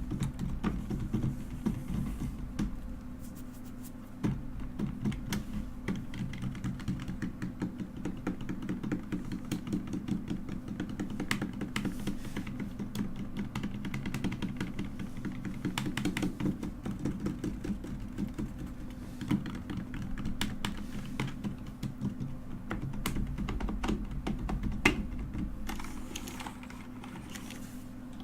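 Mechanical keyboard being typed on continuously: fast, irregular clacking of keys, with a steady low hum underneath.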